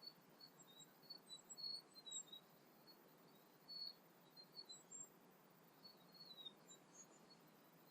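Faint birdsong at dawn: many short, high chirps and brief gliding notes from several birds, scattered unevenly over a faint steady hiss.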